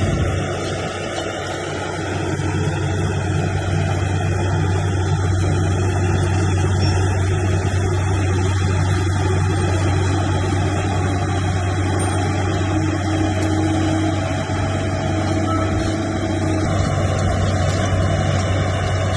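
A heavy earthmoving machine's engine running steadily with a deep, even drone.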